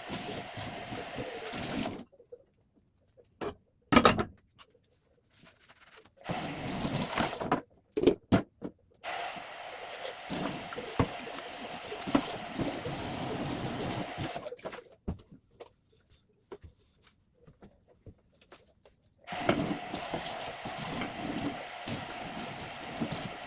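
Water running in stretches, broken by silent gaps, with a few sharp knocks about four and eight seconds in.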